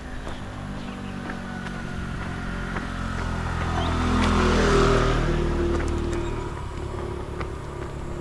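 A motor vehicle passing by on the road. Its engine grows louder up to about five seconds in, drops in pitch as it goes past, and then fades away.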